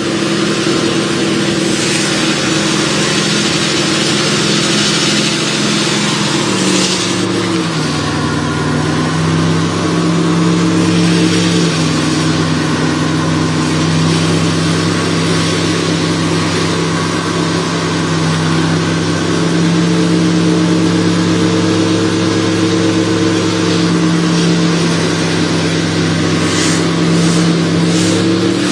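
1971 Ford F-250's 360 FE V8 held at high revs in second gear during a burnout, spinning the right rear tire in the water box. The engine note drops a little about seven seconds in, then holds steady.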